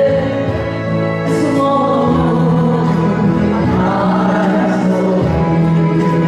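Music: a voice singing a Korean ballad over instrumental accompaniment.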